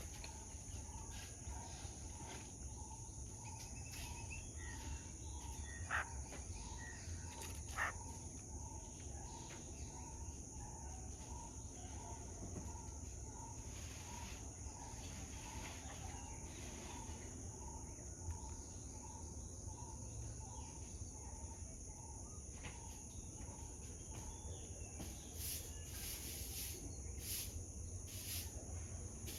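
Tropical garden ambience. A steady high-pitched insect drone runs under a soft note that repeats evenly a bit faster than once a second. Two short, sharp bird calls stand out a few seconds in, with a few high chirps near the end.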